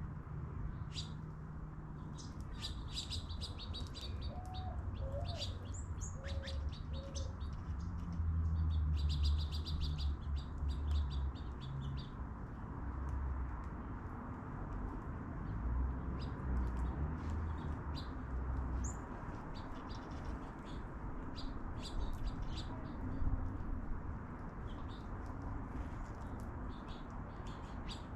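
Small birds chirping in many short, high calls, often overlapping, over a steady low rumble.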